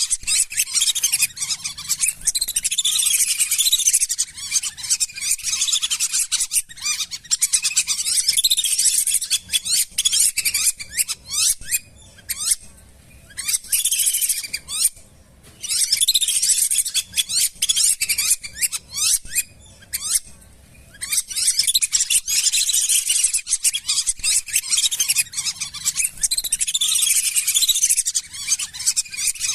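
A flock of lesser whistling ducks calling: a dense chatter of many short, high whistles, broken by a few brief lulls midway.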